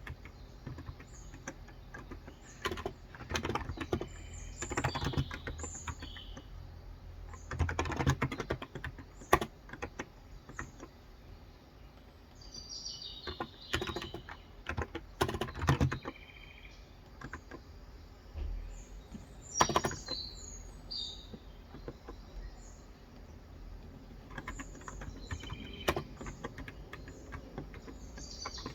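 Typing on a Cox Endeavor electrostatic capacitive tenkeyless keyboard with light 35 g switches: quick runs of soft key clicks in bursts with short pauses. Birds chirp in short high notes in the background throughout.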